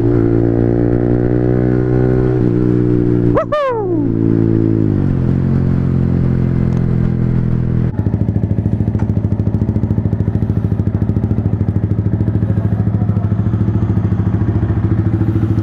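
Yamaha MT-15's single-cylinder engine running under way, with one quick rev about three and a half seconds in, after which the engine note falls as the bike slows. About halfway through the sound switches to the engine idling steadily with an even, rapid exhaust pulse.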